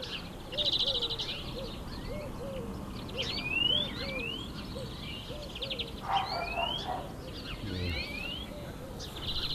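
Several birds singing and calling. There are rapid high trills near the start and again near the end, rising whistled notes in the middle, and a run of short low notes, about three a second, through the first two-thirds.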